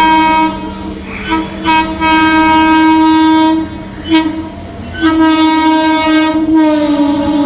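Indian Railways train horn sounding a series of blasts: a couple of short toots, a long blast of about two seconds, another short toot, then a long blast that drops slightly in pitch near the end, over the running noise of the train.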